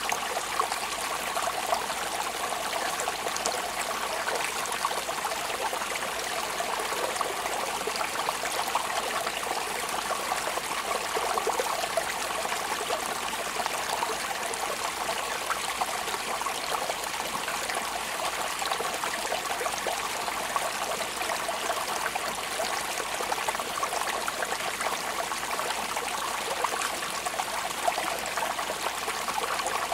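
Steady rain falling: an even hiss made up of many small drop ticks that neither builds nor eases.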